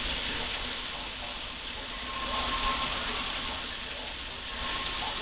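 Heavy rain pouring down steadily in a severe thunderstorm, swelling a little about two seconds in.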